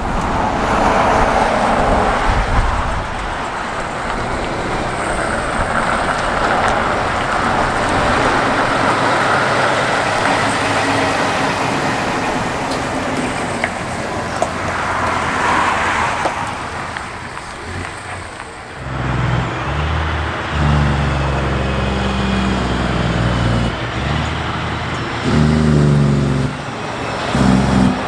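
A heavy truck drives past with a broad rush of engine and tyre noise that swells and fades. About two-thirds of the way in, a deep, steady truck engine note takes over and shifts and breaks off several times.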